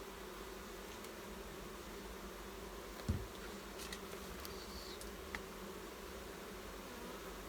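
Honeybee colony in an open hive buzzing with a steady hum, with one dull low knock about three seconds in.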